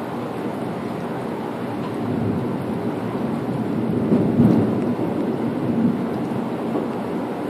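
Thunder rumbling from a lightning storm, swelling to its loudest about four seconds in and then easing, over a steady low rush.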